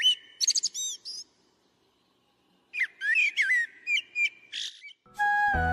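Bird calls, quick whistled chirps and sweeping notes, in two bouts: one in the first second and another from near the third second to nearly the fifth. Near the end, background music with a low drone and a melody begins.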